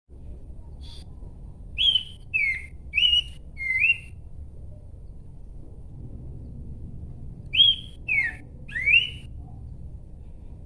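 Horsfield's babbler singing: a phrase of four loud, clear whistled notes, then after a pause of a few seconds a second phrase of three, each note a short slur up or down in pitch.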